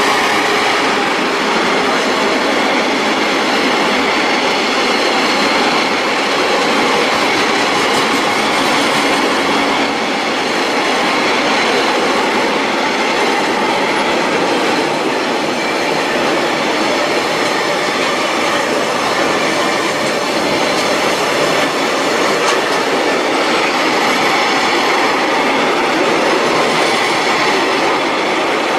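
Freight train of tank wagons passing at speed, a steady, loud rush of wheels on rail that stays even throughout.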